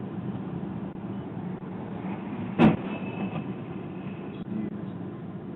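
Steady car engine and road noise heard from inside the car on a dashcam microphone. A single sharp bang about two and a half seconds in is the loudest moment, typical of a collision impact.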